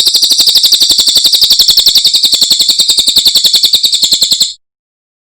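Cililin bird singing one long, loud, rapid trill of about a dozen high notes a second, evenly repeated, which stops abruptly about four and a half seconds in.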